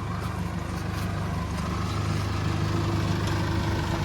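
Modified Isuzu jeep's engine idling steadily.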